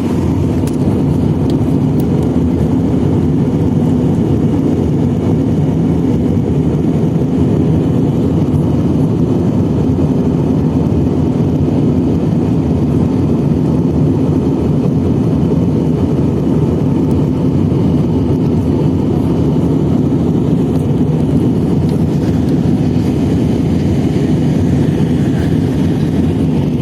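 Aeroplane engine noise: a loud, steady, unchanging rumble that neither rises nor falls.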